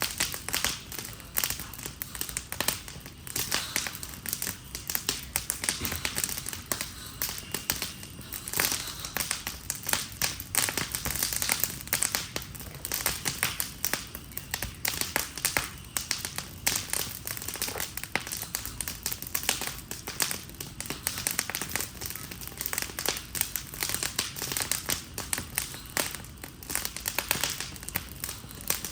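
Wood fire crackling and popping continuously as a wooden Adirondack chair burns, with dense, irregular sharp pops.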